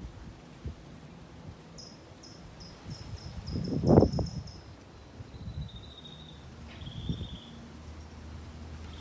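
A small bird singing a quick series of about a dozen short high notes, then two longer, slightly lower notes. A brief low rumble comes about four seconds in.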